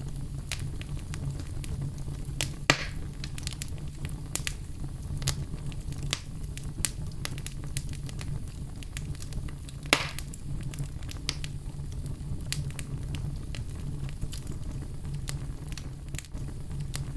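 Fire burning in a fireplace: a steady low rumble of flames with frequent small crackles and pops. Two sharper pops stand out, about three seconds in and about ten seconds in.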